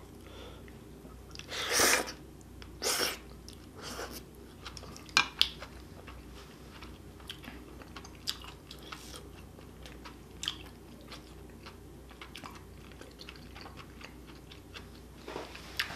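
Close-up chewing of spicy stir-fried octopus (nakji bokkeum): wet mouth smacks and clicks. There are a few louder mouth noises in the first five seconds, then quieter steady chewing.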